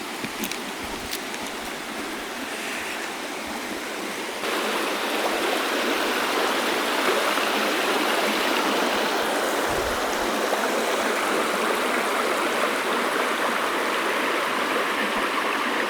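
Steady rushing of the Gentilly River's flowing water, growing louder about four and a half seconds in and then holding level.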